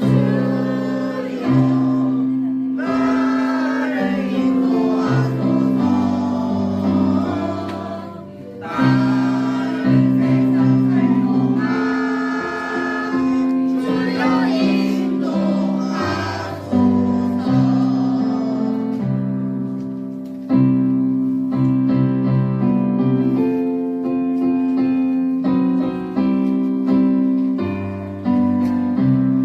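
A church praise choir singing over sustained keyboard accompaniment; past the middle the voices give way to the keyboard playing on alone.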